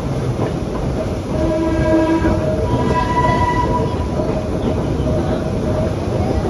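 Vintage BMT BU gate car subway train running along the track, heard from aboard: a steady low rumble with several held tones riding over it.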